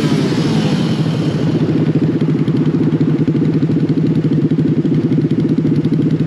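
Small mini bike engine running at a steady speed, with rapid, even firing pulses.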